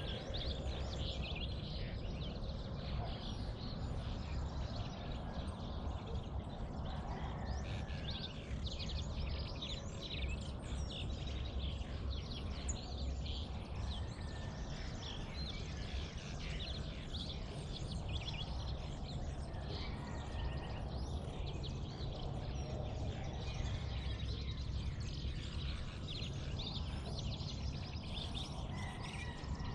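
Dawn chorus of many birds chirping and calling throughout, over a steady low rumble.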